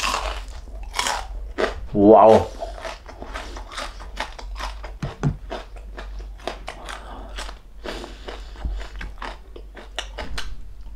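Crackling skin of a deep-fried crispy pork knuckle (crispy pata) being bitten and chewed: many quick, sharp crunches, a sign the skin is super crispy.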